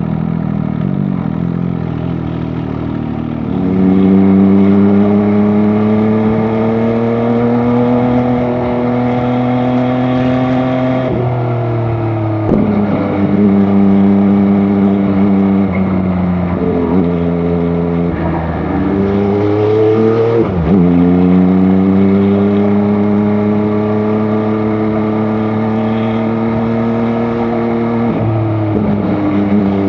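MV Agusta Dragster 800 RR's inline three-cylinder engine running under way. The engine note holds steady and creeps slowly upward over long stretches, with several brief sharp dips and recoveries in pitch.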